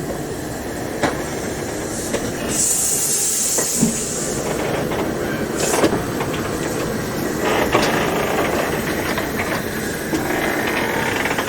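Steam locomotive with its train: a steady rumble with scattered sharp knocks, and a burst of steam hissing about two and a half seconds in that lasts over a second.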